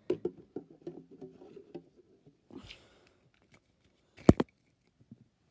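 Snack packages being handled and placed into a mini fridge: light clicks and taps, a short rustle about two and a half seconds in, and one sharp knock about four seconds in.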